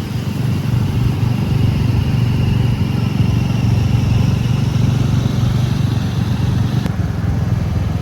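A motor vehicle's engine running steadily at a constant pace, with a faint high whine over it in the first few seconds.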